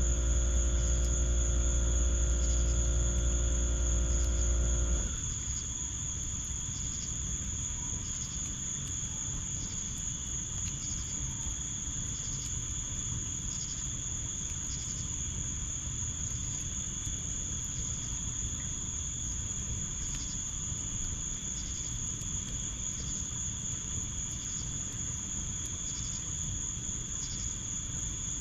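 Crickets calling: a steady high trill with another cricket chirping about once a second over it. A low mechanical hum runs underneath and cuts off suddenly about five seconds in.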